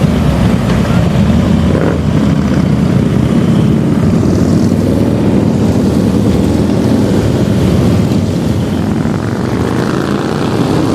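Motorcycle engines running, loud and steady.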